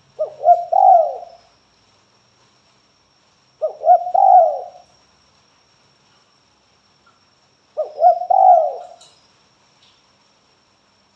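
Spotted dove cooing: three phrases about four seconds apart, each a short note followed by a longer rolling coo.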